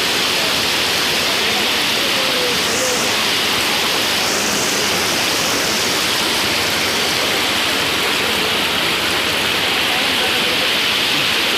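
Steady, loud rushing of floodwater.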